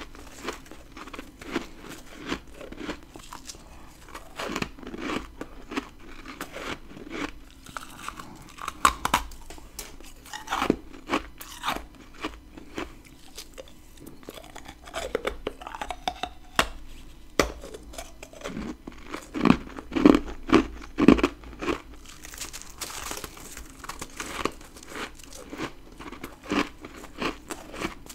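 Close-up bites and chewing of powdery freezer frost, humidifier frost built up in a deep freezer: a long run of crisp, crumbling crunches, with the loudest cluster of bites about two-thirds of the way through.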